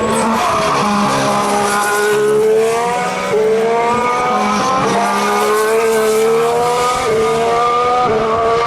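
2014 Formula 1 car's turbocharged 1.6-litre V6 hybrid engine accelerating through the gears: the engine note climbs and then drops sharply at each upshift, several times over.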